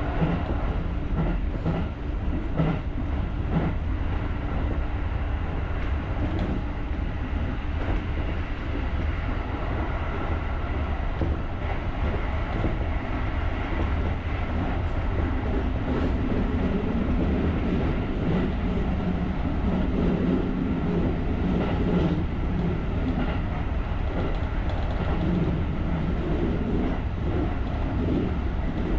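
JR rapid electric commuter train running along the line as heard from the driver's cab: a steady rumble with scattered clicks of the wheels over the rails. The rumble grows a little stronger in the second half.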